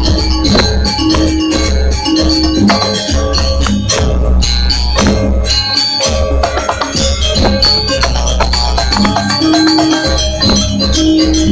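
Balinese gamelan-style music accompanying a janger dance: drums and rattling percussion under short repeating notes of tuned metal percussion.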